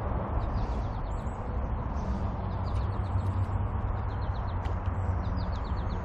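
Birds chirping in short, quickly repeated trills over a steady low rushing background.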